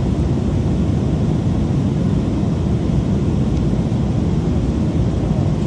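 Airliner cabin noise: the steady low roar of a jet airliner in flight, heard from a passenger seat.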